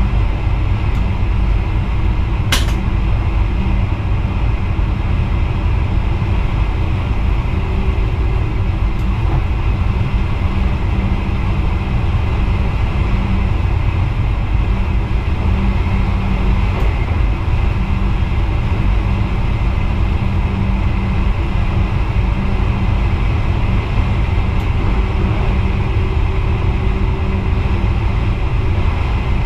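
NS VIRM double-deck electric train heard from inside the driver's cab while running: a steady low rumble with a hum that comes and goes. There is one sharp click about two and a half seconds in.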